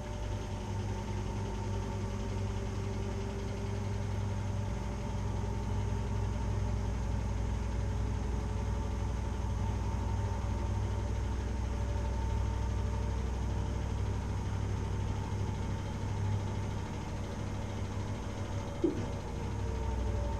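Washing machine running: a steady low hum from the drum with a motor whine that drifts slowly in pitch, and a single click near the end.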